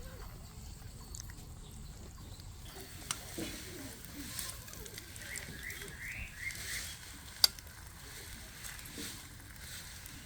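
Outdoor campsite ambience with a bird giving a quick run of short rising chirps about halfway through, and scattered small clicks, one of them sharp about seven seconds in.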